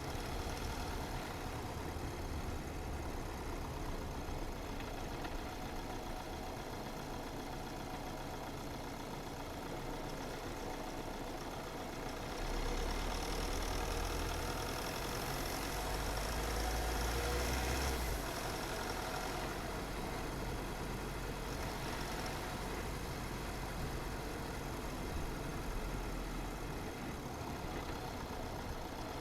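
A car's engine and tyre noise while driving at a steady pace. A louder low rumble comes in about twelve seconds in and lasts about five seconds.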